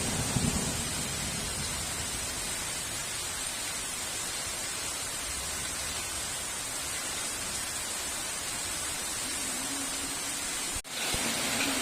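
Heavy rain falling steadily, an even hiss, with the last of a thunder rumble fading in the first half second. Just before the end the sound cuts out for an instant and resumes with a faint low steady tone under the rain.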